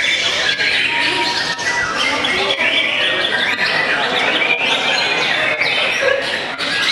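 A chorus of many caged white-rumped shamas (murai batu) singing at once at a songbird contest: a dense, unbroken tangle of overlapping whistles, warbles and chirps at a steady level.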